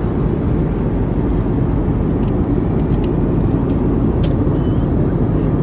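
Steady low roar of an airliner cabin in flight, the engine and airflow noise heard from a passenger seat.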